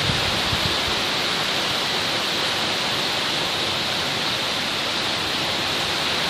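Heavy rain falling during a thunderstorm, a steady even hiss.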